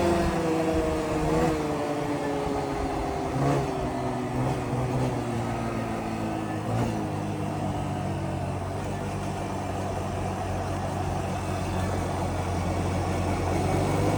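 Yamaha Grizzly 125 ATV's small single-cylinder engine easing off: its pitch falls over the first few seconds, with a few brief throttle blips, then it settles into steady low running.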